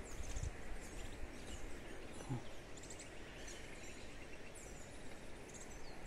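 Birds chirping and singing in short, scattered calls over a steady background hiss.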